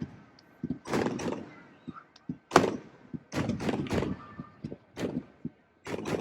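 Fireworks exploding: a run of irregular bangs, some sharp and some with a short crackling tail, the loudest about two and a half seconds in.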